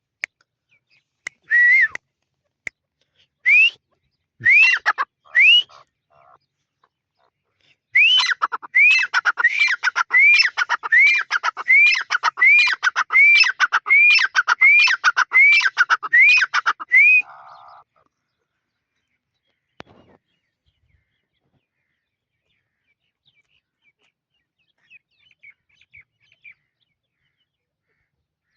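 A bird calling: a few single rising, whistled calls, then a steady run of about fifteen rising calls at under two a second, stopping abruptly about two-thirds of the way through.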